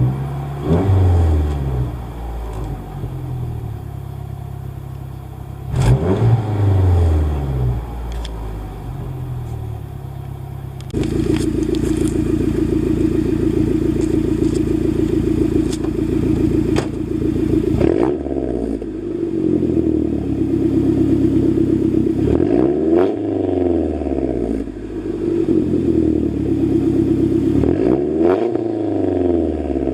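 2011 Mazdaspeed3's turbocharged 2.3-litre four-cylinder, warmed up, breathing through a long catted downpipe and a catback with no resonator, being revved: two quick revs that fall back to idle, then about a third of the way in the idle turns suddenly louder and steadier, followed by three more revs rising and falling back.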